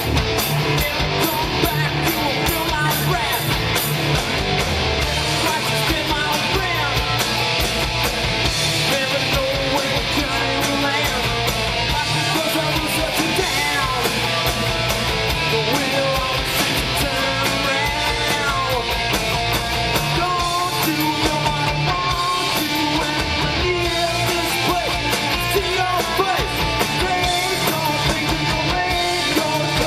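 Rough live recording of a four-piece rock band playing: distorted electric guitars, bass and a drum kit, with singing.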